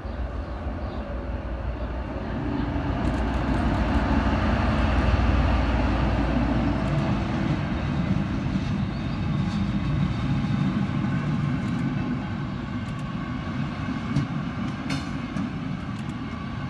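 Train rolling slowly across a street level crossing. A deep rumble dominates for the first seven seconds or so. Then the carriages roll past with steady wheel-on-rail noise and scattered sharp clicks.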